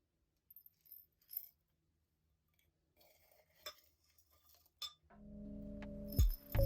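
A few faint, light clinks and taps of small hard objects being handled. About five seconds in, soft ambient music with sustained tones fades in and grows louder.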